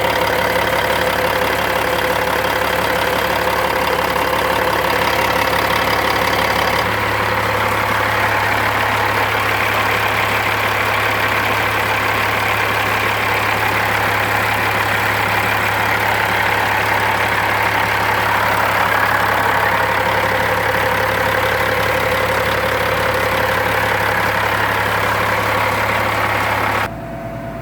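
Engine running steadily at idle with a constant low hum. Its tone shifts slightly about seven seconds in, and the level drops abruptly near the end.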